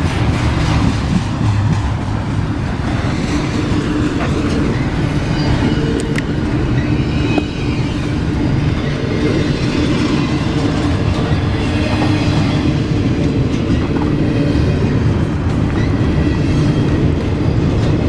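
A train rolling past at close range: a steady, loud rumble of railcars on the track, with clickety-clack of wheels over the rails and a few steady tones from the running gear.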